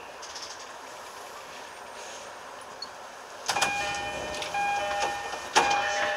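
Quiet steady running noise of an E233 series 3000 electric train coming to a stop. About three and a half seconds in, a sudden louder clatter with knocks, then ringing chime tones at a few pitches, as the train sits at the station.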